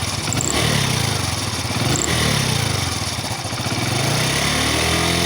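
Hero Passion Pro 110 cc single-cylinder four-stroke motorcycle engine running and revved in repeated short blips, its pitch rising and falling several times and climbing again near the end. The engine has a blown head gasket and a scored cylinder block, which make it smoke and give a 'fatfat' popping sound when the throttle is opened.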